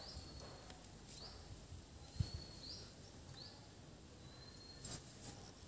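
A bird calling faintly, a thin high note repeated about six times, each a quick upward slide into a held, slightly sagging tone. A couple of faint knocks sound in between.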